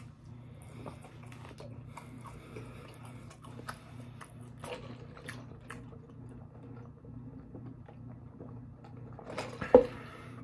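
Close-up chewing and crunching of curly fries, with many small crisp clicks, over a steady low hum. About a second before the end comes one much louder sharp sound.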